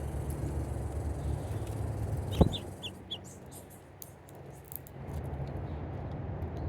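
A bird calling at a feeder: a sharp click, then a quick run of four short high notes, over a steady low rumble.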